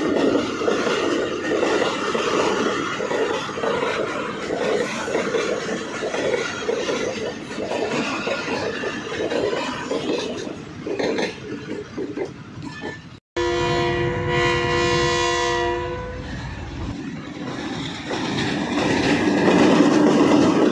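Pakistan Railways train running, its wheels clicking over rail joints under a steady rumble. After a brief cut about two-thirds of the way in, the locomotive horn blows one steady blast for about two and a half seconds, then the running noise builds back up.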